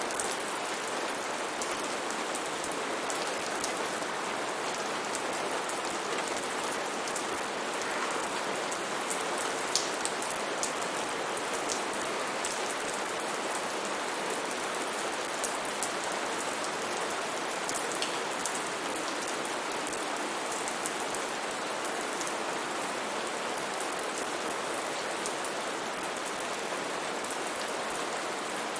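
Steady rain with a constant hiss, dotted with sharp ticks of single drops landing close by.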